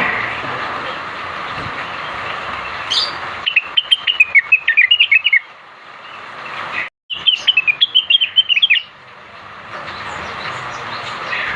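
Greater green leafbird (cucak wilis) singing two quick phrases of sharp, high chirping notes, each about two seconds long, over a steady hiss. The audio drops out completely for a moment between the phrases.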